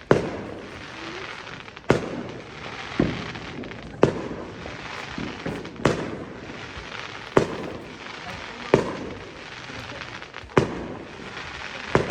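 Fireworks exploding: a run of about eight sharp bangs, one every second and a half to two seconds, over a steady background hiss.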